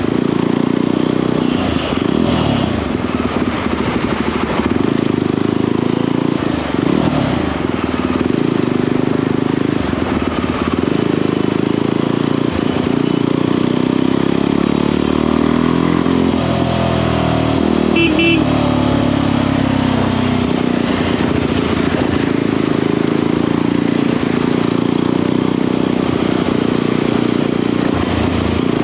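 Motorcycle engine running under way, its pitch rising and falling as the rider changes speed. A short horn toot sounds about two-thirds of the way through.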